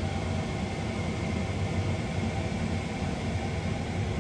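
Steady mechanical drone of running machinery: an even low hum with a faint high whine above it, unchanging throughout.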